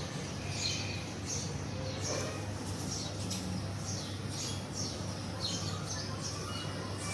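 Budgerigars chirping and chattering: many short, high chirps one after another, over a steady low hum.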